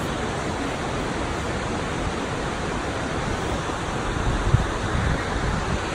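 Waterfall: a steady rush of falling water, with a brief gust of wind on the microphone about four and a half seconds in.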